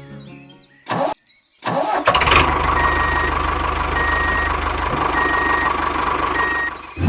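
A vehicle engine starts and runs steadily with a fast even pulse, while a high beep repeats about once a second; it stops shortly before the end.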